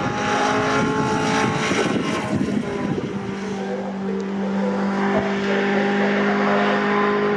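Racing pickup trucks' engines running as they pass on the circuit. About three seconds in, the sound settles into a steady, even-pitched engine drone.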